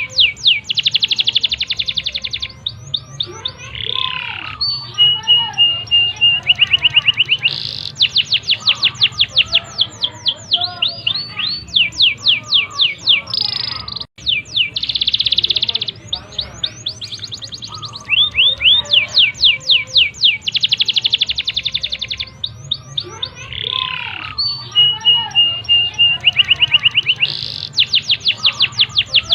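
Domestic canary singing a long, fast song: rapid runs of rising whistled sweeps and rolling trills, one phrase straight after another. The song breaks off abruptly for an instant about halfway through, then carries on.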